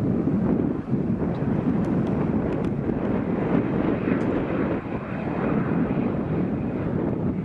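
Jet airliner engines with a steady, loud rush, mixed with wind buffeting the microphone.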